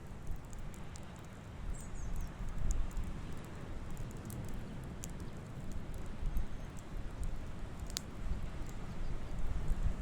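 Campfire crackling: scattered small pops and snaps of burning wood, with one sharper snap about eight seconds in, over a steady low rumble.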